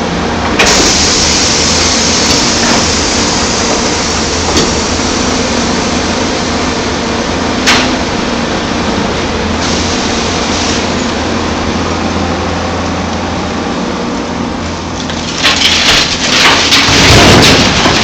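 Large excavator working, its diesel engine running steadily under the hydraulics, with a few sharp metal clanks. Near the end there is a loud crunching rattle, like a bucket load of rock and dirt dumped into a truck bed.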